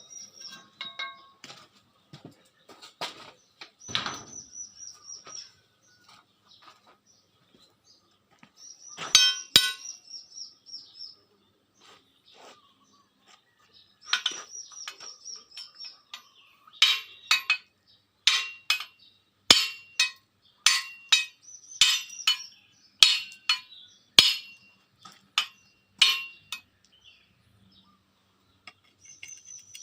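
Metal being struck or tapped: sharp clinks with a short high ring. There are a few scattered hits, then a run of about a dozen strikes roughly once a second in the second half.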